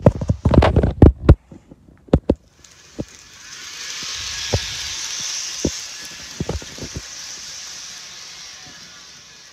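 A cluster of sharp knocks and clicks, then an HO scale model train running on its track: a high whirring hiss of motor and wheels that swells as it passes close by and slowly fades as it moves away, with a few clicks of the wheels over rail joints.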